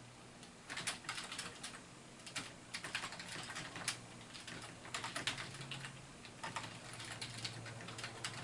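Typing on a computer keyboard: quick runs of keystrokes in four or five bursts with short pauses between them.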